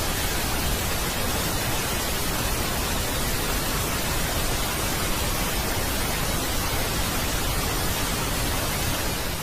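Steady, even hiss of static, like television static, from a played-back 'space sound' track for one of Pluto's moons; it dies away at the very end.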